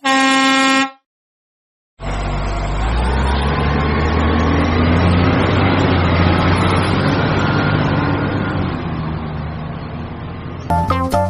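A short horn-like musical note, then after a second of silence a small diesel engine on a water pump starts up loud and runs steadily for about nine seconds. Music comes in near the end.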